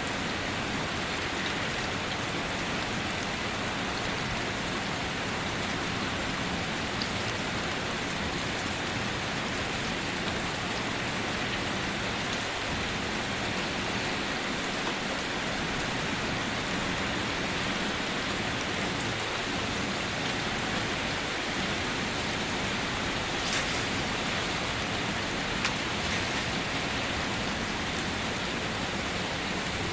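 Steady rain falling: an even hiss with a few separate drops ticking out now and then, loudest in the second half.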